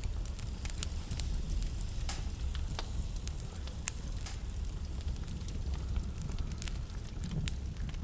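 Wood fire burning in a fireplace: a steady low rumble of flames with irregular crackles and sharp pops from the burning logs, the sharpest pops about two, four and six seconds in.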